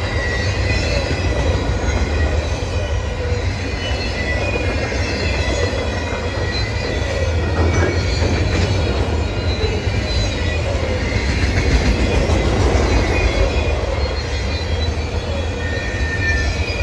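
Freight train cars rolling past at close range: a steady heavy rumble of wheels on rail, with thin high squeals from the wheels wavering over it.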